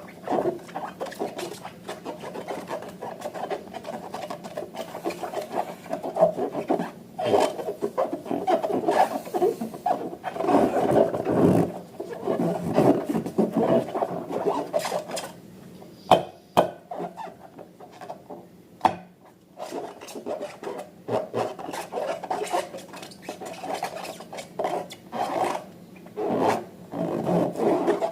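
Slime being kneaded and squished by hand, an irregular run of wet squelching and crackling, with a quieter stretch a little past halfway.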